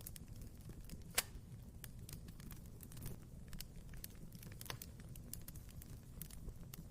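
Wood fire crackling in a fireplace: many small sharp crackles over a low rumble, with one louder pop about a second in.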